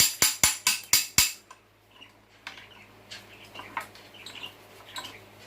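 Sharp metallic taps from a screwdriver used as a hammer on a Cub Cadet 102 engine part. There are six quick strikes at about four a second, stopping about a second in, followed by faint light clicks of handling.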